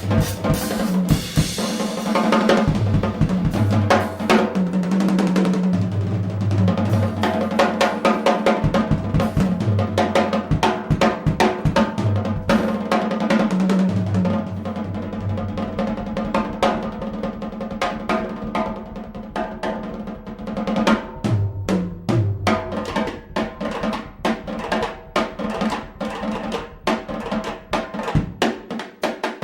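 Jazz band playing an instrumental break with the drum kit to the fore: fast snare, cymbal and bass-drum strokes over a line of low bass notes. The bass notes drop away about two-thirds of the way through, leaving mostly the drums.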